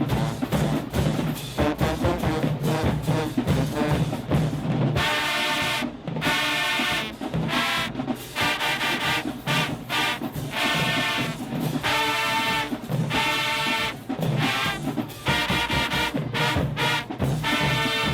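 High school marching band playing: drums under the horns at first, then, about five seconds in, loud brass chords in short punched phrases with brief breaks between them.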